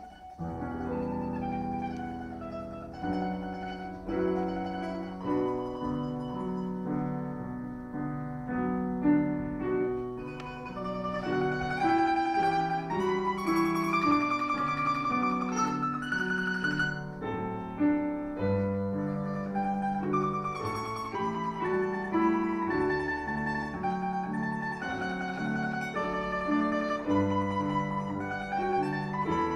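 Domra playing a melody in quick plucked notes over piano accompaniment.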